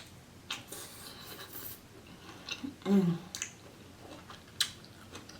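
Close-miked chewing of seafood boil: wet mouth sounds with a few sharp crisp clicks, and a short hum of the voice about three seconds in.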